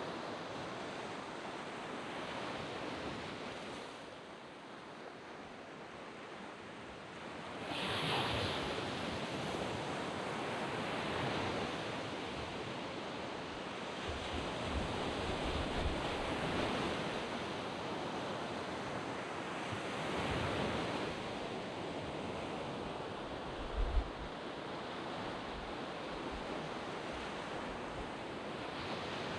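Small waves breaking and washing up a sand beach, the surf swelling and easing every few seconds, with the biggest wash about eight seconds in. A few low thumps of wind catch the microphone.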